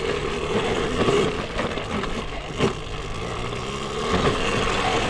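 Dirt bike running along a trail, with one sharp knock about two and a half seconds in.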